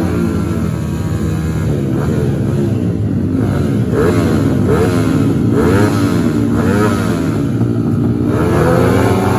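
Several racing motorcycle engines revving hard at once, their notes overlapping and repeatedly climbing in pitch then dropping as they shift up through the gears.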